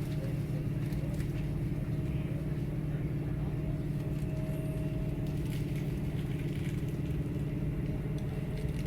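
Steady low mechanical drone that does not change, with a few constant hum tones over a low rumble.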